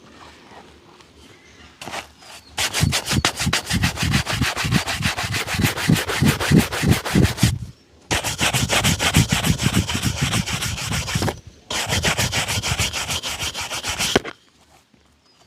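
Shoe being buffed with rapid back-and-forth rubbing strokes, in three runs broken by short pauses, the first starting about two and a half seconds in.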